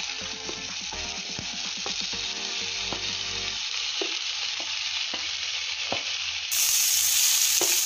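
Vegetables and paneer sizzling in hot oil in a non-stick kadai as they are tipped in from steel bowls, with a few light knocks of metal on the pan. The sizzle turns louder and brighter near the end.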